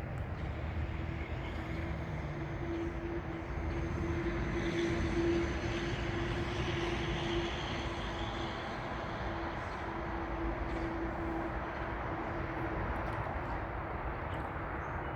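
Distant engine drone with a low steady hum, swelling to its loudest about five seconds in and then easing off.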